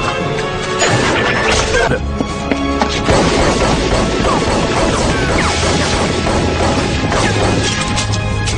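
Film or TV action-scene soundtrack: dramatic music under loud crashing and smashing impacts.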